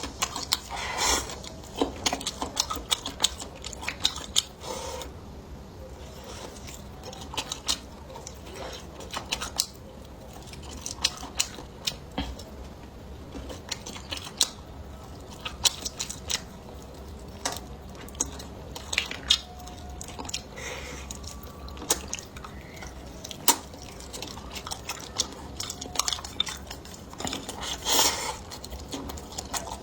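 Close-up eating sounds: utensils clicking and tapping against dishes in scattered sharp clicks, mixed with chewing and biting.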